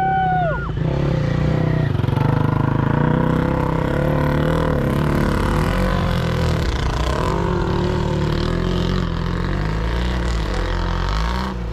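Several sidecar motocross motorcycle engines running and revving, their pitches rising and falling.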